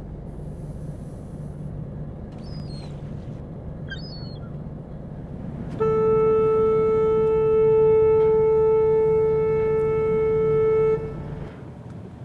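Icebreaker's horn sounding one long, steady blast of about five seconds, over the low steady hum of the boat's engine.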